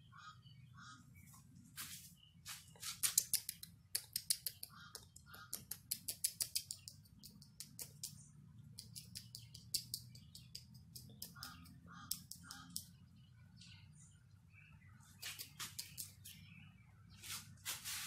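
A young bird held in the hand calling in several rapid rattling bursts of a second or more, with a few short chirps between them.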